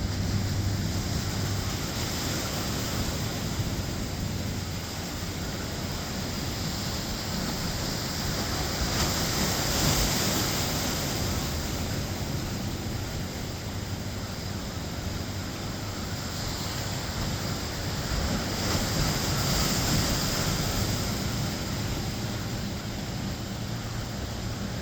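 Ocean surf breaking on the beach, swelling louder twice, with wind buffeting the microphone. Underneath runs a faint, steady low drone of an unseen boat's engine coming in through the fog.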